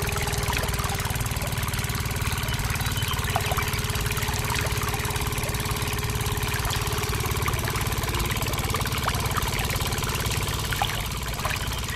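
Steady idling-engine sound with a low rumble from a miniature model engine driving a small water pump. Water trickles from the pipe into a plastic tank. A higher steady hum fades out about eight seconds in.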